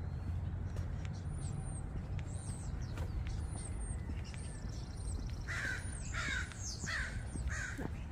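A crow cawing, a run of about five caws in the second half, over a dawn chorus of small songbirds giving quick high chirps throughout. A steady low rumble sits underneath.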